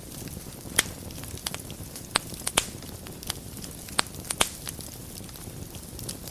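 Wood fire burning in a fireplace: a steady low rumble of flame with irregular sharp crackles and pops, five louder pops standing out.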